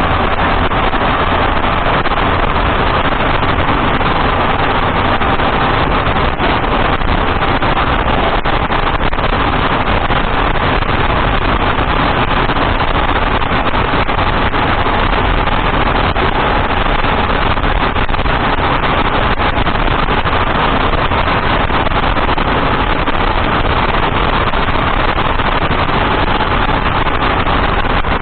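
Datsun on-DO car driving at road speed: a steady rush of tyre and road noise, with a faint steady tone.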